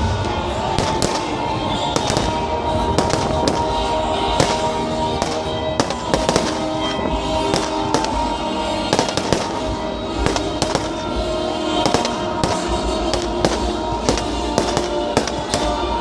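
Firecrackers going off in quick, irregular succession, several sharp bangs a second, with music playing underneath.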